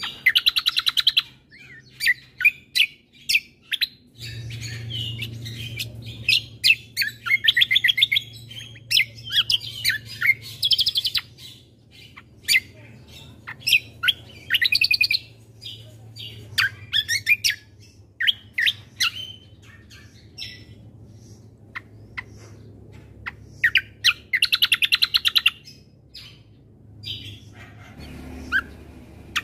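Kecial kombo (cucak kombo) songbird singing: bursts of fast, high trills and sharp chirps separated by short pauses, with a faint low hum beneath.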